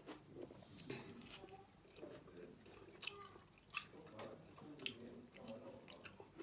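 A person chewing a mouthful of spicy fried shellfish up close, with wet mouth sounds and several sharp clicks and smacks.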